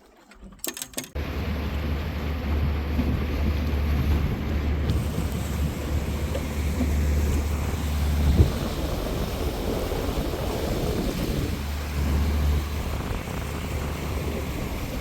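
Wind buffeting the microphone at sea, a rough low rumble over a steady rush of water, starting abruptly about a second in. A single short knock sounds about eight seconds in.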